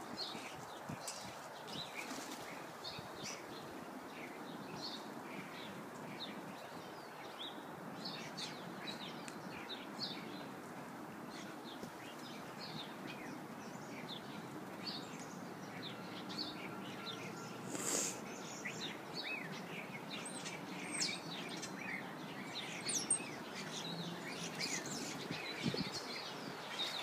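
Small birds chirping in many short, overlapping calls, busier in the second half, over steady background noise. There is one brief louder rush of noise about two-thirds of the way through.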